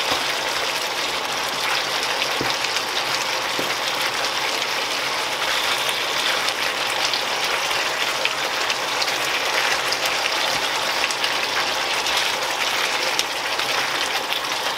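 Chicken and chopped tomato sizzling steadily in a hot frying pan, with fine crackling, while being stirred with a spatula.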